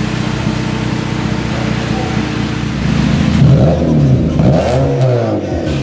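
Honda Civic's R18 four-cylinder engine through a loud custom exhaust, running at a steady drone. About three seconds in it gets louder as the revs rise and fall a few times.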